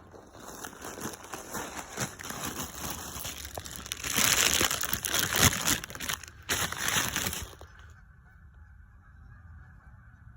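Geese honking, under a loud rustling, crinkling noise that starts about half a second in, is loudest from about four seconds in and stops abruptly near eight seconds.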